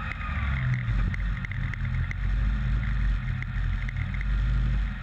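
Peugeot 106 rally car's engine running at low revs, its pitch wavering up and down in small steps, with light clicks and rattles throughout.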